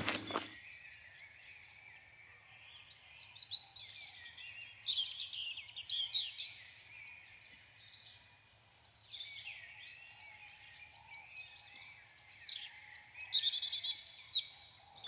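Birds calling: many short high chirps and trills scattered throughout, busiest about a third of the way in and again near the end.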